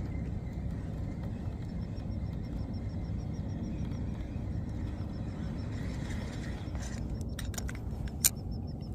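Steady low rumbling noise with a faint, quick, even ticking over it, and a few sharp clicks near the end, the loudest about eight seconds in.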